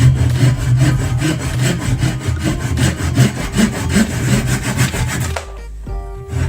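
Wood being worked by a cutting tool in rapid scraping strokes, stopping abruptly about five and a half seconds in.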